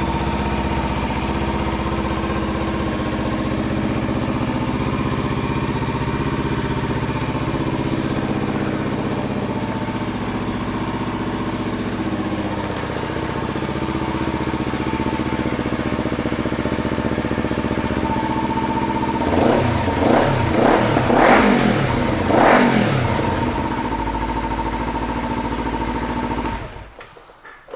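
Kawasaki Ninja 300's parallel-twin engine, fitted with a Two Brothers aftermarket exhaust, idling steadily. About twenty seconds in it is given a few quick blips of the throttle, then it settles back to idle and is switched off near the end.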